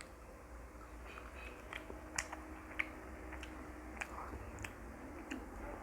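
A person chewing and biting into french fries, a series of sharp separate mouth clicks and crunches, the loudest about two and three seconds in.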